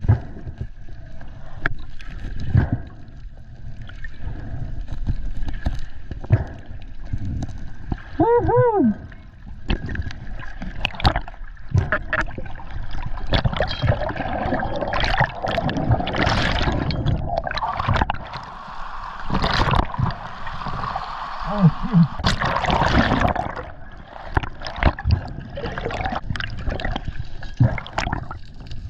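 Underwater sound of a freediver in a strong current: water gurgling and rushing over the camera housing, with scattered clicks and knocks. Whale calls sound through it, one arching call a little over 8 s in and low wavering tones around 21 s.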